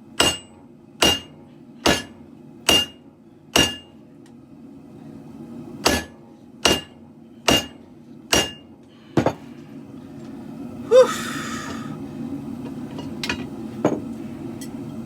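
Hand hammer striking steel on an anvil in two runs of five ringing blows, about one blow a second, with a pause between, then a brief different sound and a few lighter taps near the end. A steady low rush, the propane forge burners, runs underneath.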